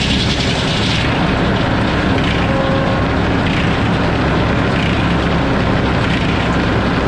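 Sawmill running, its engine and saw giving a loud, steady mechanical drone with a broad hiss over it; the higher hiss drops back about a second in.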